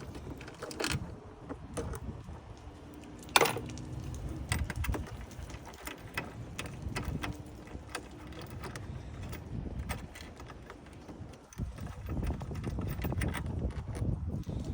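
Ratcheting socket wrench clicking as bolts are undone, with scattered clinks and knocks of metal tools and parts. One sharper knock comes about three and a half seconds in.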